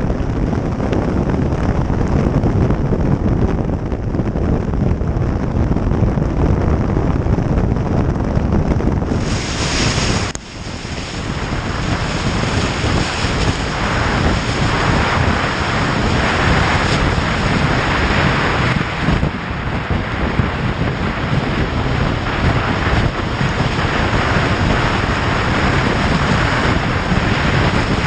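Wind rushing over the microphone on a moving motorcycle, with the bike's engine and road noise underneath. The noise dips briefly about ten seconds in, then builds back up.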